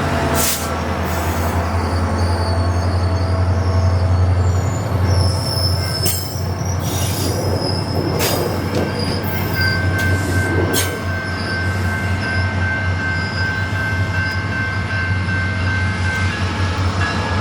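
Passenger train running through the station with a steady low rumble, scattered metallic clicks and high-pitched wheel squeal; one steady squeal holds from about ten seconds in until shortly before the end.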